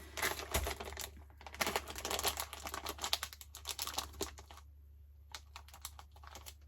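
Sweets and their packets being handled: dense rustling and small clicks as chocolates are picked out and dropped into a dish, thinning to a few scattered clicks near the end.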